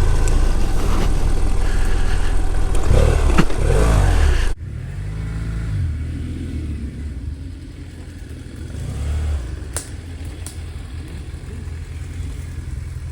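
Small BMW motorcycle's engine running while riding, loud for about four and a half seconds, then cutting suddenly to a quieter stretch where the revs rise and fall.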